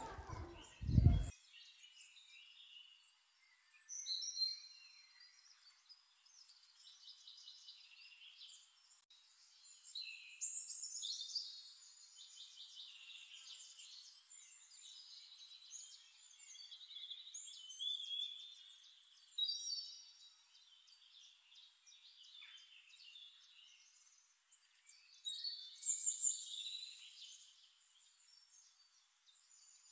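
Small birds chirping and singing in short clusters every few seconds, with quick high trills and rising and falling calls. A brief loud thump about a second in.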